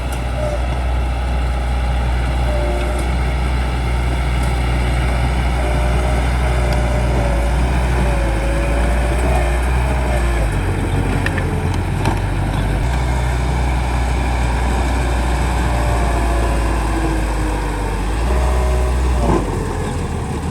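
Bulldozer's diesel engine running steadily under load, its low note shifting a few times as it works, with faint wavering whines above it.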